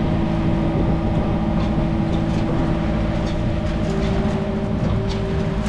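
A sailboat's auxiliary engine running steadily while motoring under power, a constant drone.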